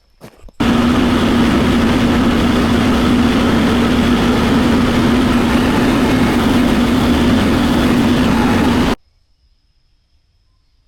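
Tractor's diesel engine running steadily at close range, with a constant low hum. It cuts in abruptly about half a second in and cuts out abruptly near the end.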